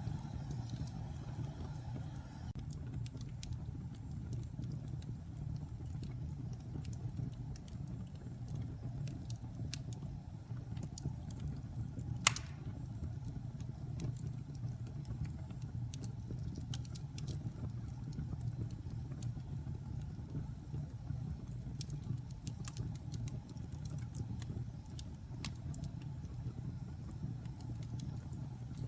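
Wood campfire burning with a steady low rumble and scattered sharp crackles of the logs, and one much louder pop about twelve seconds in.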